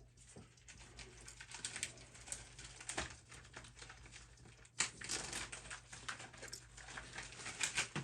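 Faint rustling and crinkling with scattered light clicks and taps, from someone handling materials close by; one sharper click about five seconds in.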